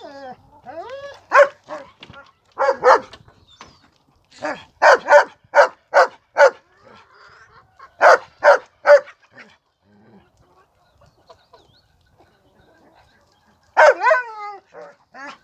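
A dog barking in runs of short, quick barks with pauses between, and a quiet stretch before a last louder bark near the end.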